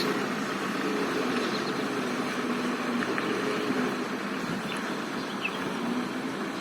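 Diesel dump truck loaded with soil, its engine running steadily with a low hum.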